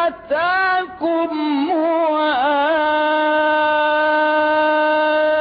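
A single voice chanting Quran recitation in melodic tajweed style, stretching out a long vowel. After two brief breaks in the first second, the voice bends the pitch in a wavering ornament about two seconds in, then holds one steady note.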